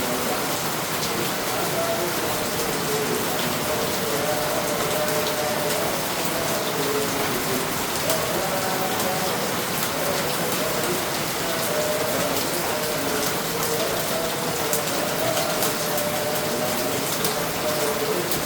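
Heavy rain falling steadily, a continuous hiss with short, irregular tones mixed in underneath.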